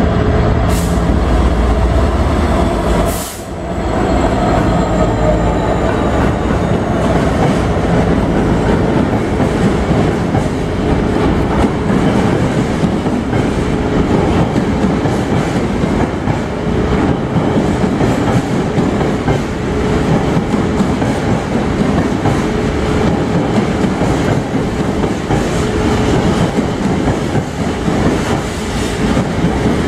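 A Class 66 diesel freight locomotive passes close by in the first few seconds with a deep engine rumble. A long train of empty container flat wagons then rolls through, its wheels clacking over the rail joints above a steady rumble.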